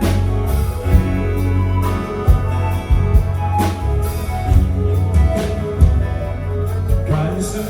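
Live band playing an instrumental ballad intro: guitar over a bass line, with drum-kit hits about once a second.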